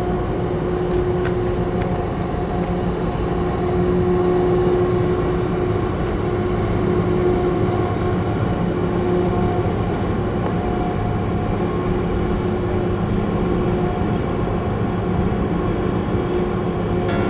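Steady engine drone: a constant hum with a few held tones over a low rumble, unchanging throughout.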